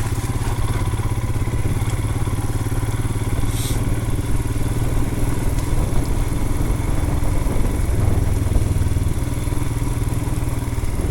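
2020 Royal Enfield Himalayan's 411 cc single-cylinder engine running steadily as the motorcycle is ridden off-road on a dirt trail.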